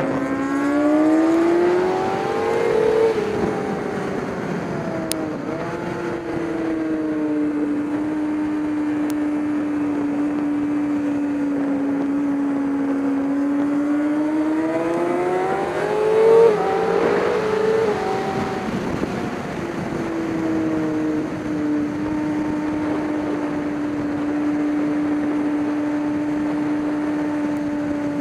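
A race vehicle's engine running at speed, its pitch climbing for the first few seconds and again about two thirds of the way in, then holding a steady drone between.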